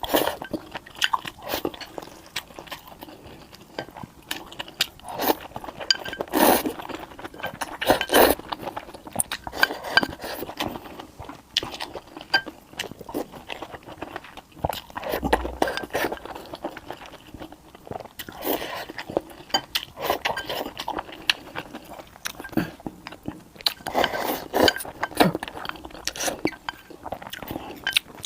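Close-miked ASMR eating: a person biting and chewing food, with irregular crunchy bites all through.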